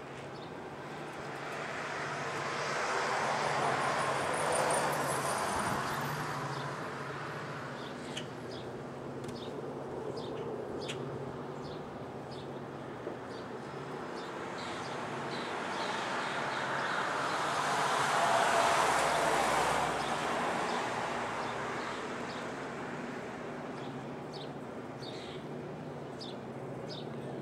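Diesel locomotive of a Union Railroad coke train running with a steady low rumble. Two broad swells of noise rise and fade, peaking about four and eighteen seconds in, with scattered light ticks.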